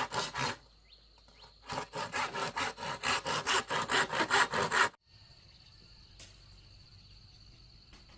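Hand saw cutting wood in quick rasping strokes, about four a second, with a short pause near the start. The sawing stops abruptly about five seconds in, leaving a faint, steady high insect trill.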